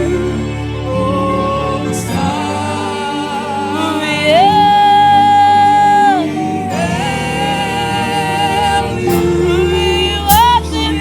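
Live gospel praise music: a lead line of long held notes, sliding up into each one, over steady band accompaniment.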